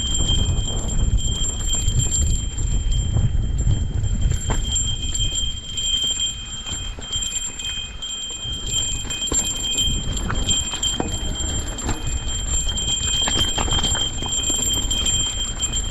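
Wind buffeting the microphone as a low rumble, with scattered light clicks and knocks from the mountain bike moving over rough trail.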